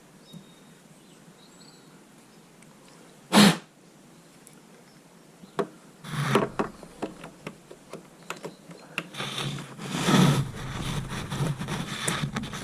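A short, loud burst of noise about three seconds in, then a run of irregular clicks, knocks and rustling from hands-on work on the car.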